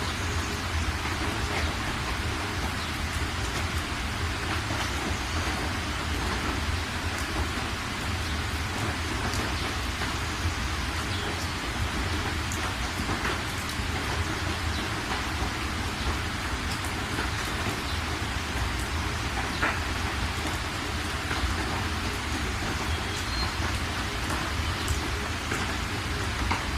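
Steady rain falling on a surface, an even hiss with scattered individual drop ticks over a low continuous rumble.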